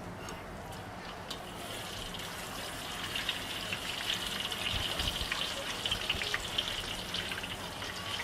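Food sizzling in hot oil: a steady hiss with dense fine crackling that grows stronger about three seconds in.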